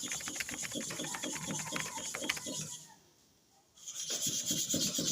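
Hair-clipper blade being rubbed rapidly back and forth on a sharpening stone under firm pressure, a quick run of gritty strokes. It stops for about a second near the middle, then the strokes start again.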